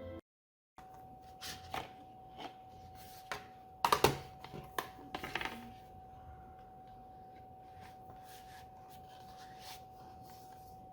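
Hands handling packaging and objects: scattered clicks and rustles, the loudest cluster about four seconds in, over a faint steady hum.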